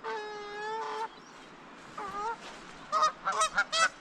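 Geese honking: one drawn-out honk, then a short call about two seconds in and a quick series of honks near the end.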